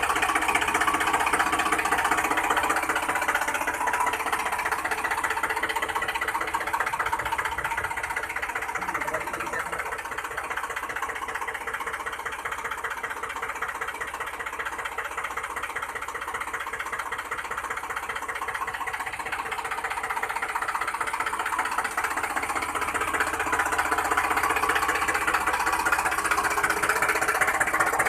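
A small motor running steadily with a fast, even chatter. It eases off a little midway and picks up again near the end.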